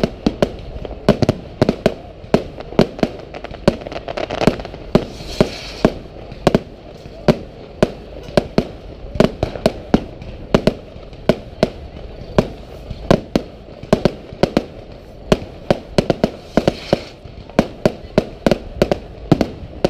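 Fireworks display: aerial shells bursting in a rapid, irregular string of sharp bangs, several a second, with a short hiss twice.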